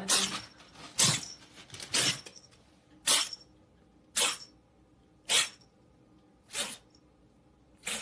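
A pet animal making a series of short, breathy bursts, about one a second, spacing out slightly towards the end.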